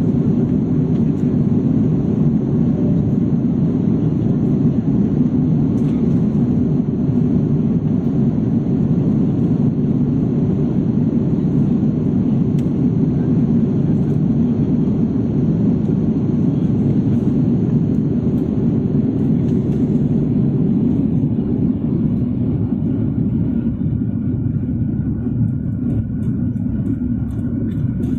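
Steady low roar of an aircraft cabin in flight, easing a little in the last several seconds.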